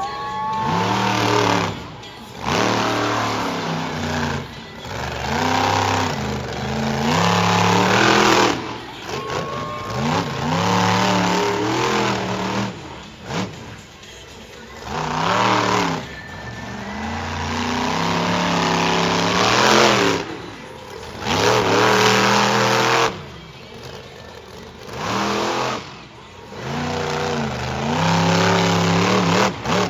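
Monster truck engine revving hard again and again, its pitch climbing and dropping with each burst of throttle, in loud surges every couple of seconds with brief lulls between.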